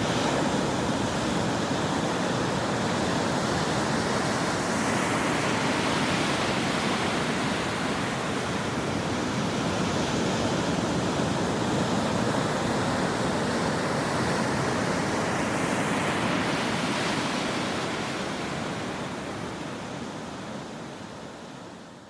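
Ocean waves breaking on a shore: a steady wash of surf that swells twice, about ten seconds apart, as waves crash. The sound fades out near the end.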